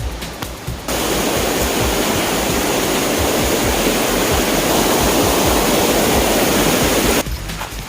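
Large waterfall swollen by monsoon rain, a loud steady rush of falling water that cuts in suddenly about a second in and cuts off suddenly near the end. Background music with a beat plays before and after it.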